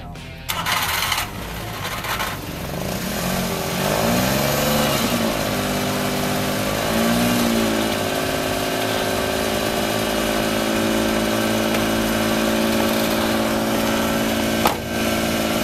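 Cold start of a 1995 Suzuki Carry mini truck's small three-cylinder engine in freezing weather: it cranks, catches about three seconds in, rises and falls in pitch a couple of times, then settles into a steady idle. A single sharp click near the end.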